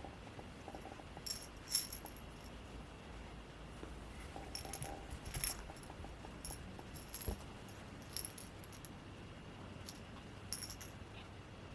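Light metallic jingling and clinking in short scattered clusters, a handful of times, with the strongest about two seconds in and again about halfway.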